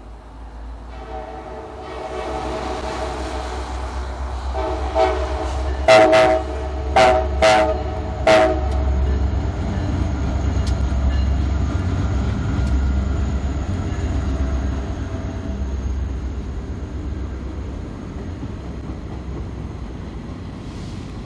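Diesel locomotives of a CSX train approaching and passing, sounding a multi-chime air horn for the highway crossing. The horn rises into several loud blasts about five to eight seconds in and fades out after about sixteen seconds, while the deep engine rumble carries on.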